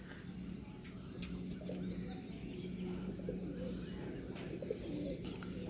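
Low, steady bird cooing, held for most of a few seconds with brief breaks, with a few faint clicks.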